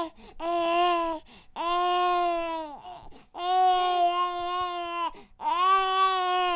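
Baby crying in a series of drawn-out wails at a steady pitch, about four cries each lasting one to two seconds, with short breaths between them.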